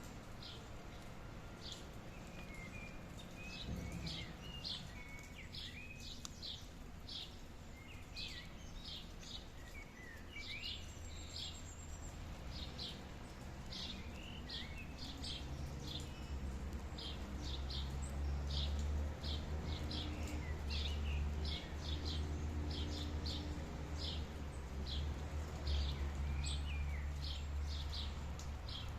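Birds calling: short, high chirps repeated over and over, with lower twittering calls from other birds in the first half, over a steady background hiss. A low rumble builds up from about halfway through and stays to the end.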